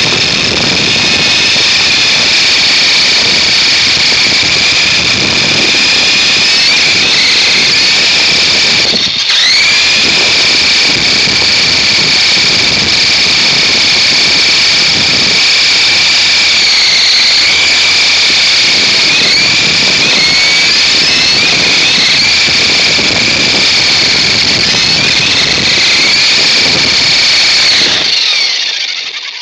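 RC helicopter's electric motor and rotor running at close range, a steady high whine that wavers in pitch. It dips briefly about nine seconds in and spools back up, then stops about a second before the end.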